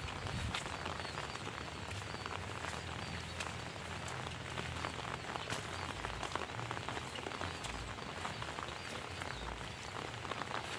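Heavy rain falling steadily, a dense patter of individual drops hitting close by.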